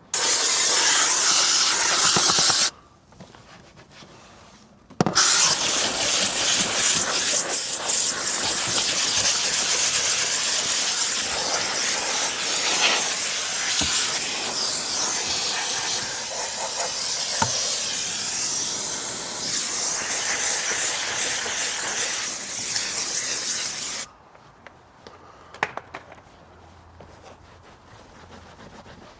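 Loud rush of air from a car-detailing tool working the interior, switched on and off: it runs briefly, stops for about two seconds, then runs steadily for about twenty seconds before cutting off suddenly, with a few faint clicks after.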